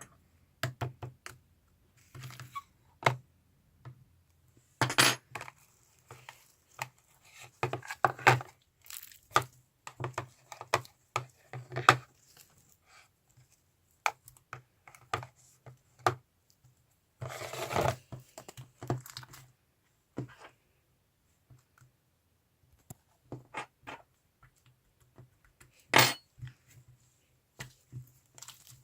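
Slime being handled by hand, making scattered sharp clicks and crackles with a few longer crinkly rustles, the loudest about five seconds in, around seventeen seconds, and near the end.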